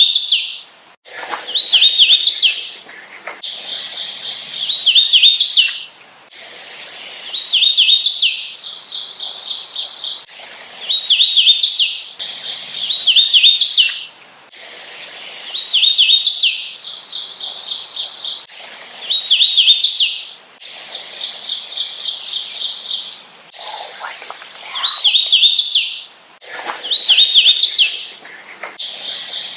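Hooded warbler singing repeatedly: a short run of clear, slurred whistled notes that ends in a higher, emphatic phrase, about one song every two seconds.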